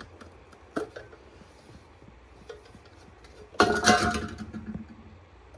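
Small clicks of the air filter cover being unfastened on a Honda EM3000 generator, then a loud clatter with a short ring about three and a half seconds in as the cover comes off and is handled.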